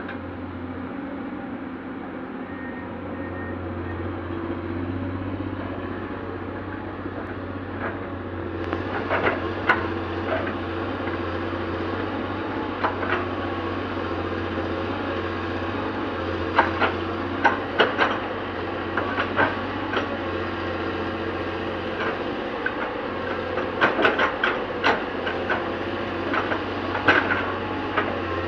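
Hydraulic excavator's diesel engine running steadily under work, with sharp clanks and knocks coming in from about a third of the way through, in clusters toward the end, as the machine works at the structure.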